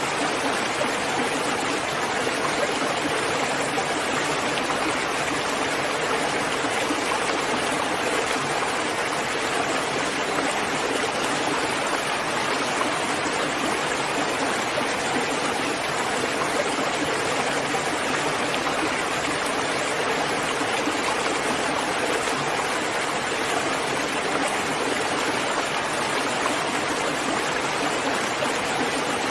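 Steady rain falling, a dense even hiss of water without separate drops standing out.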